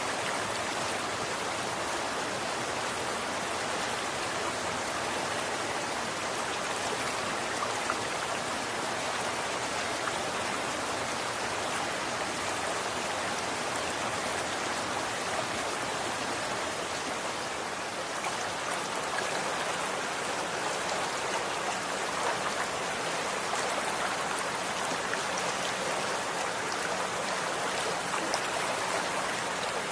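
Running water from a stream or small flow: a steady, even rush with faint splashing and droplet ticks.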